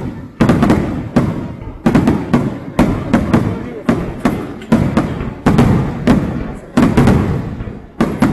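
Fireworks shells bursting in quick succession, about two sharp booms a second, each trailing off in a long echoing rumble.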